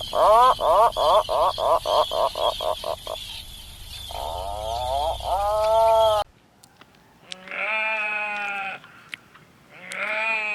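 Farm animals bleating. A rapid run of short pulsed bleats trails off, followed by one long bleat. After an abrupt cut come two shorter, higher bleats about two seconds apart.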